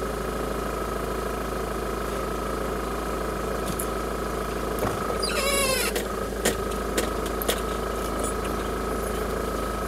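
Off-road vehicle engine running steadily at crawling speed on a rough track, heard from inside the cabin. About halfway through comes a brief wavering squeal, then a few sharp knocks.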